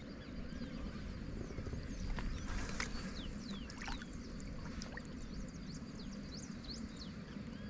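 Birds chirping outdoors, many short high calls scattered throughout, over a steady low rumble.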